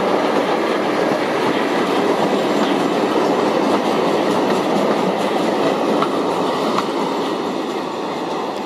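Freight train of covered car-carrier wagons passing through at speed: steady wheel-on-rail noise that starts to fade in the last second or so as the end of the train goes by.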